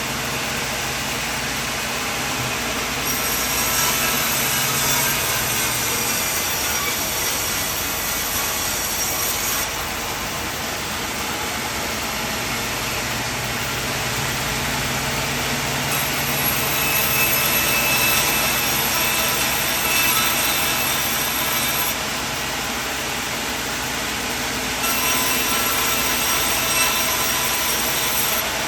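Portable sawmill running steadily, its engine note joined by three spells of the blade cutting through wood.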